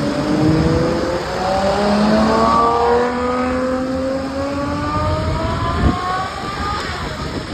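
Ferrari 812 Superfast's V12 engine accelerating away, its pitch rising, with a drop in pitch about a second and a half in as it shifts up. A brief sharp crack comes near six seconds, and the sound fades toward the end.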